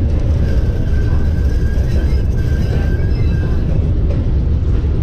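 A 1914 streetcar running along its track, heard from aboard: a steady low rumble of wheels on rail and the car's running gear. A faint high whine sounds from shortly after the start until past the middle.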